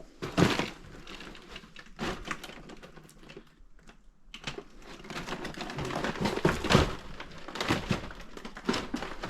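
Irregular knocks, clicks and rustling of someone moving through a room crammed with boxes and debris, with things shifting underfoot and being brushed against. It eases off briefly near the middle, then gets busier and louder.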